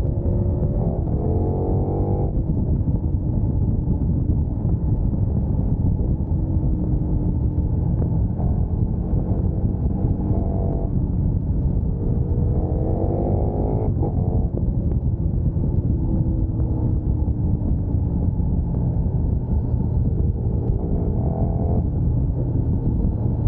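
Sport motorcycle engine running at speed, its pitch climbing in several hard pulls through the gears, over a steady low roar of wind and road noise.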